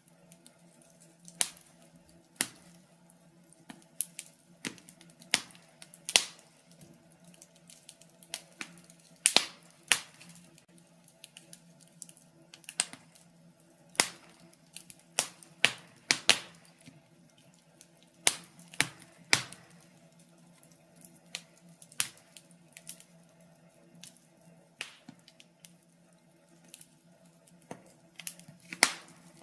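Wood fire crackling in a fireplace: irregular sharp pops and snaps, a few louder than the rest, over a faint steady hum.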